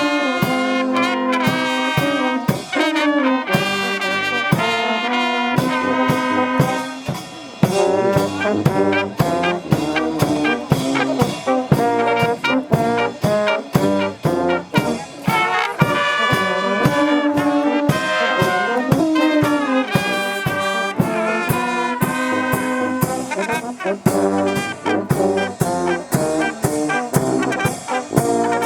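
Brass music: a tune played on brass instruments over a steady drum beat.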